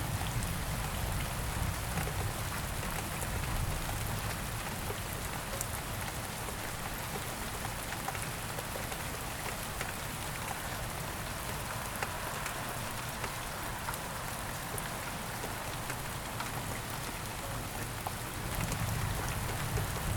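Steady rain falling on a surface, an even hiss with scattered drop ticks over a low rumble that swells near the start and again near the end.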